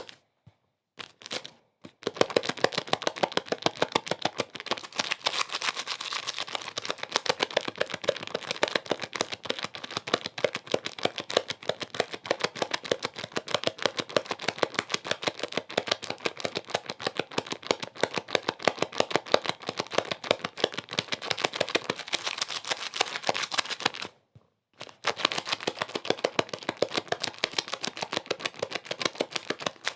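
Dense, irregular crackling: many sharp clicks a second, broken by brief silences near the start and again about 24 seconds in.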